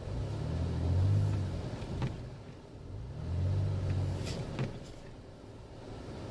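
Vehicle engine revving up and dropping back twice, low-pitched, over a steady rush of wind and road noise, with a few faint clicks.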